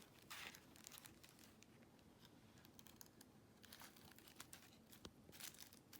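Faint crinkling of plastic wrapping and light clicks as a Kikyo Shingen mochi package is handled and opened, with a sharper click about 5 seconds in.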